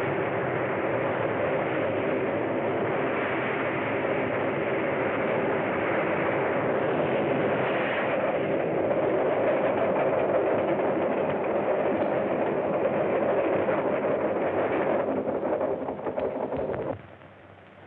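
A train running at speed, a steady dense rumble and clatter that cuts off suddenly near the end.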